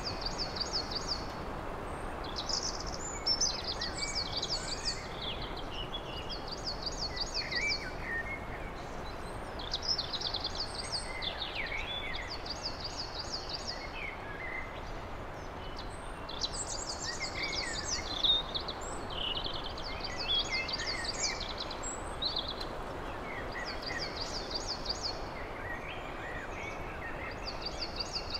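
Several songbirds singing, one repeating a high, fast trill of rapid notes every two seconds or so, with other scattered calls between, over a steady background hiss.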